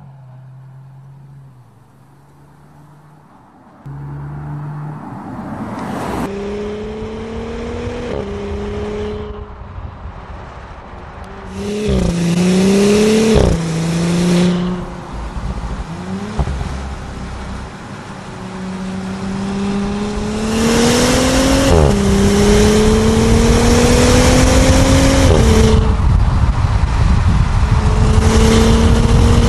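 Audi SQ5's V6 engine accelerating hard under full throttle, its note climbing in pitch and dropping back at each of several upshifts. It gets louder toward the end as speed builds.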